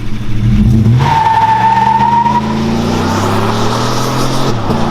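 Chevy Silverado pickup's exhaust through a Flowmaster Super 40 Series Delta Flow muffler and a straight pipe in place of the resonator, the engine accelerating hard with its pitch climbing steadily, then dropping about four and a half seconds in, like an upshift. A high squeal rises out of it about a second in and holds for about a second and a half.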